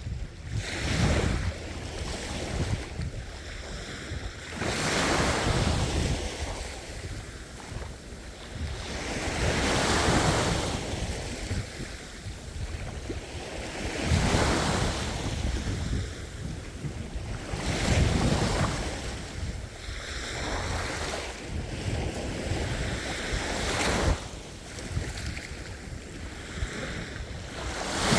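Ocean waves breaking and washing in, the rush of surf swelling and fading with a new wave every four to five seconds.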